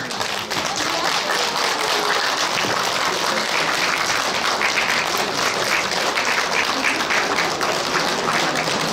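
Audience applauding steadily, many people clapping at once to cheer on a performing group as it takes the stage.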